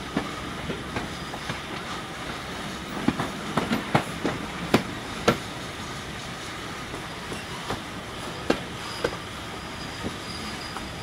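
Train running along the track behind Class 52 diesel-hydraulic locomotive D1015: a steady rumble and wind with sharp clicks of wheels over rail joints, bunched in the middle and a few more later. A faint high squeal near the end.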